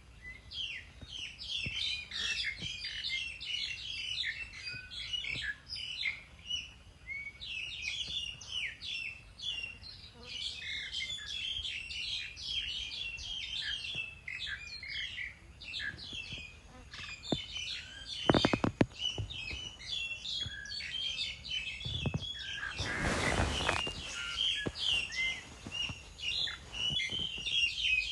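Many small birds chirping and twittering without a break. About two-thirds of the way through come a few sharp clicks, the loudest sounds here. A brief noisy rush follows a few seconds later.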